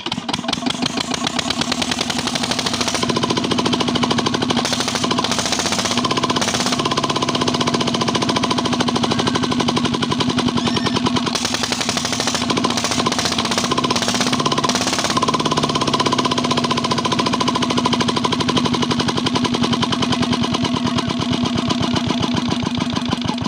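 Old Petter diesel engine driving a belt-driven tubewell pump, running steadily with a fast, even beat of its firing strokes.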